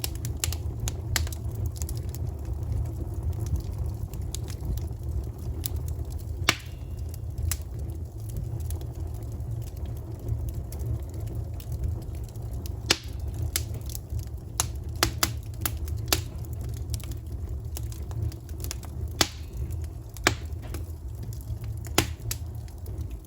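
Wood campfire burning: irregular sharp crackles and pops, a few louder than the rest, over a low steady rumble.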